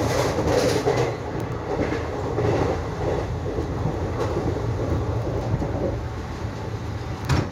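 Deccan Queen passenger train running at speed, heard from aboard its coach: a steady rumble of wheels on rails, with a single sharp click about seven seconds in.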